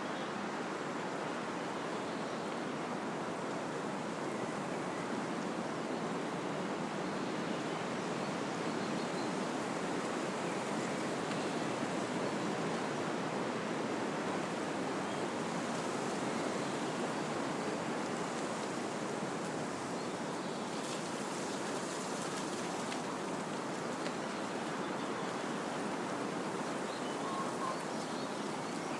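Wind rushing steadily through the leaves and branches of trees, a constant even rush, with a few faint high chirps.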